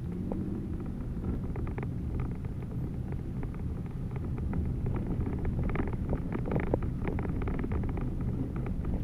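Car driving on a snowy road, heard from inside the cabin: a steady low rumble of engine and tyres, with scattered small crackles throughout that come more often in the second half.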